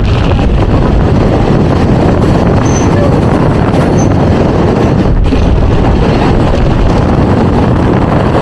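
Mumbai suburban local train running: a loud, steady rumble of wheels and carriage.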